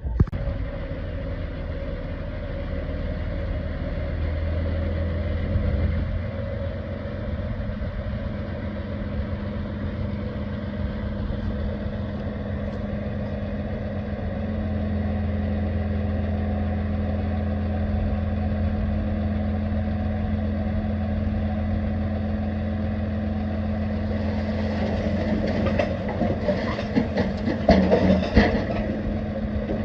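Diesel engine of heavy earthmoving machinery running steadily, picking up slightly about halfway through. Near the end comes a burst of clattering and knocking.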